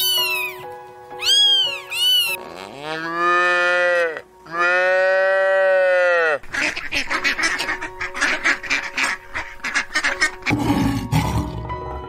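A kitten meows in short rising-and-falling calls, then cows moo twice in long, low calls, over background music. After that comes a fast run of rough, noisy calls, and near the end a low growl as a tiger appears.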